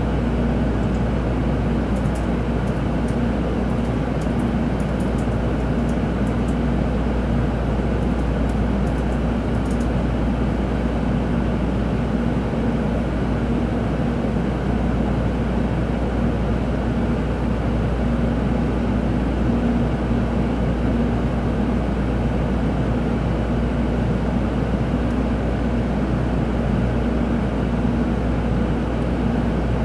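Steady cabin noise inside a Tokaido Shinkansen carriage: a constant low rumble with a steady hum over it.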